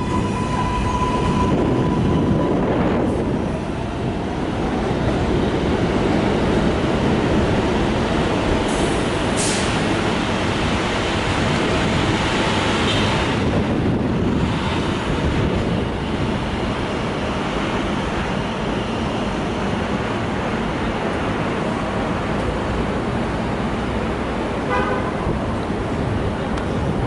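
Train running past with a loud, steady rumble. A horn tone sounding from before the start ends after about two seconds, and a short high squeal comes about nine seconds in.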